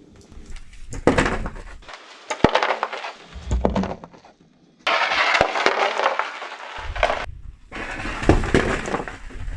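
Car tyre rolling over and crushing brittle objects: several sharp cracks and crackling crunches, then a stretch of dense crunching about halfway through.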